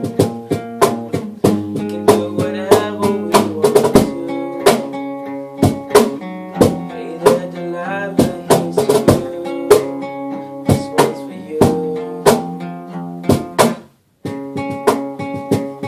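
Band music: acoustic guitar with drums keeping a steady beat. The sound cuts out for a moment near the end, then the playing resumes.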